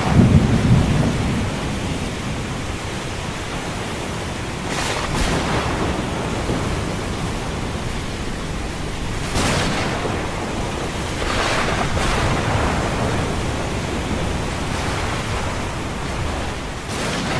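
Thunder rumbling over steady rain, with ocean waves surging in every few seconds. The deepest, loudest rumble comes in the first second.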